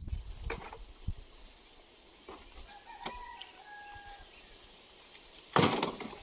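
A rooster crowing, a faint drawn-out call in the middle. A loud, short burst of noise, a thump or rustle, comes near the end.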